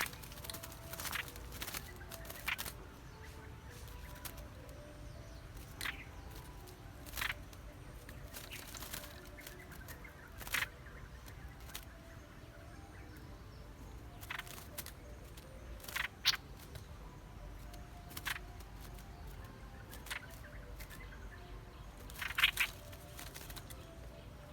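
A bird giving short chirps, one every one to three seconds, over a steady low background.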